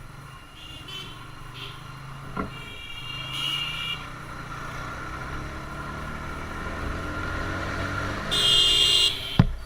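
Single-cylinder TVS Apache RTR 160 engine running steadily while riding through traffic, with road noise. Vehicle horns sound twice: a short honk about three and a half seconds in and a louder, longer one near the end, followed by a sharp thump.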